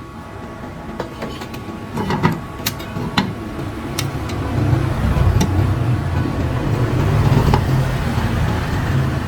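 A few sharp clicks and knocks, then a low mechanical rumble that builds up about halfway through and holds steady.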